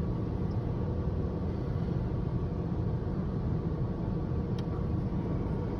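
Steady low rumble heard from inside a truck's cab as it idles in neutral at a conveyor car wash, with the wash machinery running around it.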